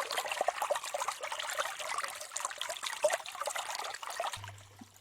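Creek water trickling and babbling steadily; it cuts off sharply about four seconds in, leaving only a faint low hum.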